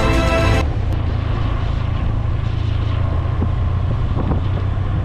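Background music cuts off about half a second in, leaving wind buffeting the microphone over a steady low rumble from a motorcycle under way.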